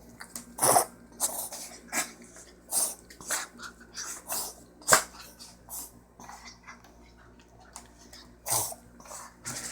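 A dog coughing oddly in a string of short bursts, roughly one every half second for the first five seconds, then two more near the end.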